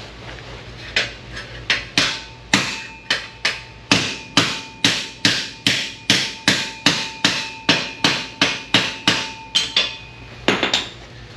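Hammer blows on a steel sheet-metal patch panel, flattening out a bend, a little over two strikes a second with the metal ringing between blows. A quick flurry of blows comes near the end.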